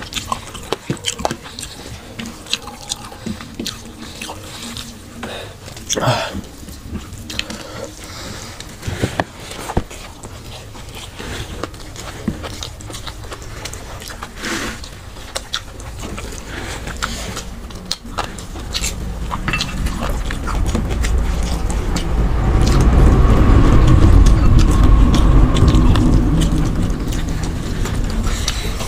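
Close-up mouth sounds of eating rice and chicken by hand: wet chewing and lip-smacking clicks. Partway through, a low rumble swells up and becomes the loudest sound before easing slightly near the end.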